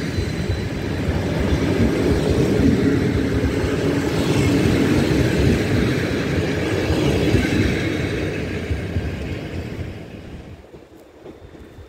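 PKP Intercity passenger coaches rolling past on the rails, a steady rumble of the wheels that fades away near the end as the last coach goes by.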